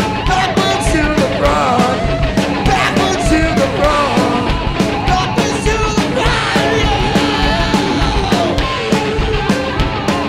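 Live rock band playing loud, distorted rock with a steady drum beat, guitars, bass and lap steel, and shouted singing over it.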